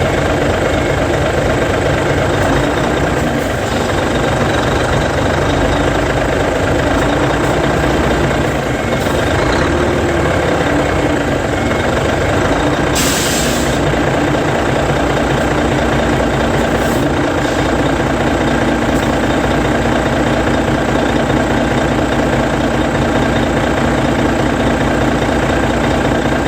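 Hino Selega's E13C 12.9-litre inline-six diesel idling steadily, with one short air-brake hiss about halfway through.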